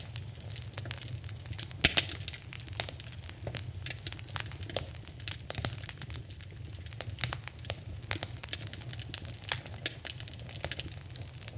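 Fire in a fireplace crackling: irregular sharp pops and snaps over a low steady rumble, with one louder pop about two seconds in.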